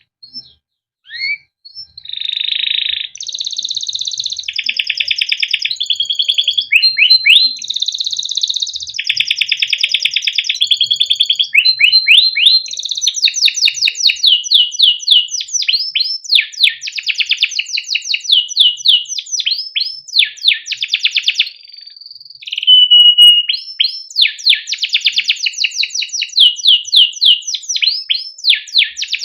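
Male domestic canary singing a long, unbroken song: phrases of fast rolling trills and rapid series of sweeping chirps, switching phrase every second or two. It starts with a few short calls about a second in.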